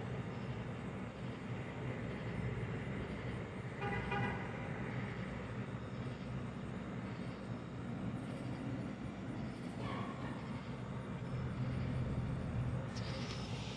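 Steady hum of outdoor traffic, with a short horn toot about four seconds in. A brighter hiss comes in near the end.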